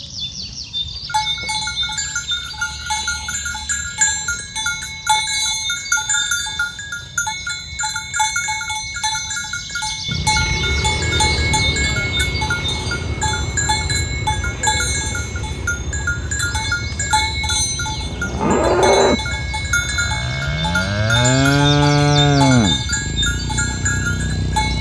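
Cowbells clanking and ringing on a herd of cattle being driven along. Near the end a cow gives a short call, then one long moo that rises and falls in pitch.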